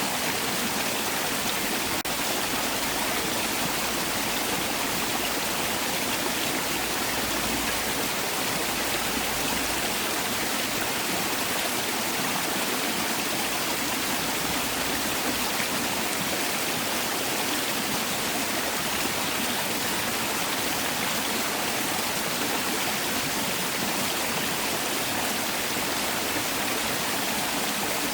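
Mountain stream water rushing and splashing over rocks in a steady, even flow.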